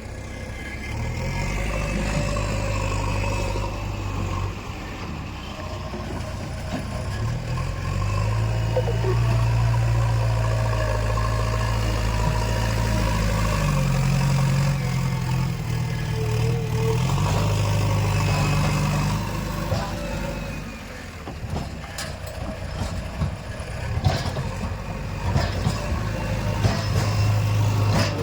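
Heavy diesel engine running and revving up and down under changing load, with a string of sharp metallic knocks and clanks in the last several seconds.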